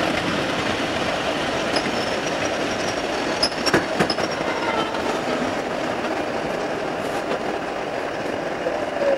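Train running on the track: a steady rumble of wheels on rail, with a faint high squeal about two to three seconds in and a few sharp clicks about four seconds in.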